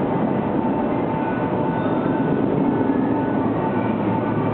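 Sotetsu 7000 series electric train moving slowly on a shunting move in an underground tunnel: a steady, echoing rumble with a steady high hum over it.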